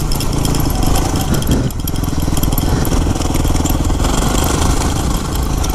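Yamaha WR250R's 250 cc single-cylinder four-stroke engine running steadily as the dirt bike is ridden.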